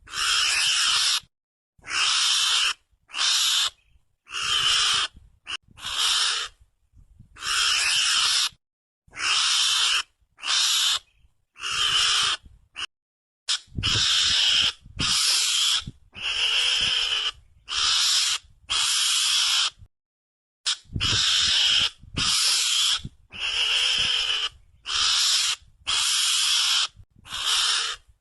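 Mongoose calls played as a hunting lure: a string of rasping, noisy calls, each half a second to a second long, repeated about once a second with short silent gaps, pausing briefly twice.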